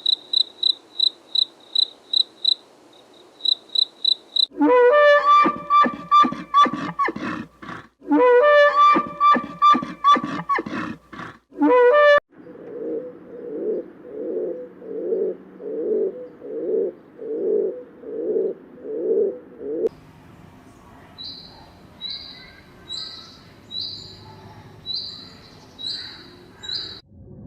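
A run of different animal calls one after another. First a fast series of high chirps, about three a second. Then loud repeated cries from about five seconds in, low pulsing calls about one and a half a second from about twelve seconds, and spaced high chirps from about twenty seconds.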